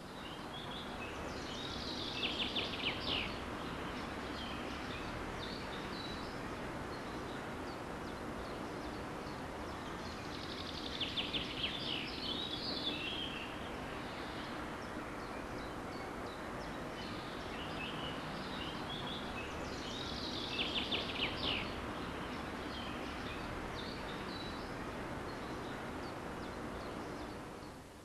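Steady outdoor background noise with a songbird singing a short, fast trilled phrase three times, about nine seconds apart.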